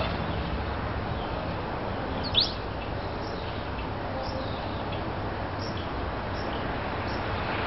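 A bird gives one sharp, high chirp about two seconds in, followed by a few faint short chirps, over a steady outdoor background hiss.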